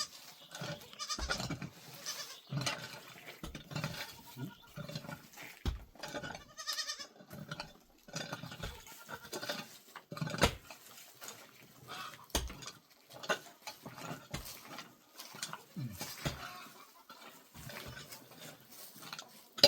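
Goats bleating now and then, with scattered knocks and clatter throughout.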